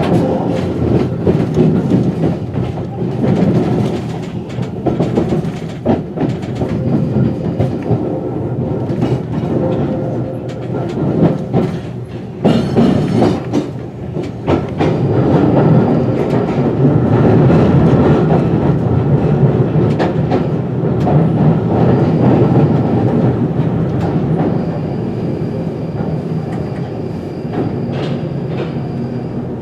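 London Underground 1995 Stock train running through the tunnel, heard from the driver's cab: a steady rumble of wheels on rail with clicks over rail joints. A hiss lasts about a second some twelve seconds in, and a steady whine rises over the rumble in the last few seconds.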